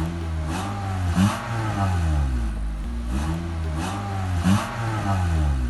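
Honda Civic engine revved twice through an exhaust with a homemade cutout and HKS muffler: the pitch climbs to a peak about a second in and again about four and a half seconds in, falling back to idle after each.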